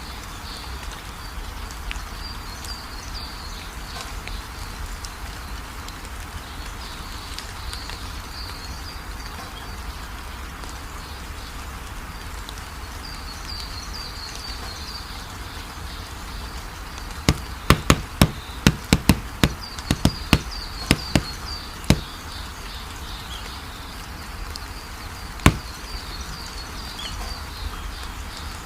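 Sharp knocks, about a dozen in quick succession two-thirds of the way in and one more a few seconds later, over a steady background hiss with faint high chirps.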